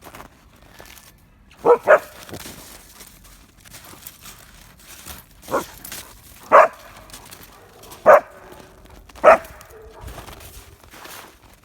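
Husky dog barking: a quick double bark, then four single barks spaced a second or so apart.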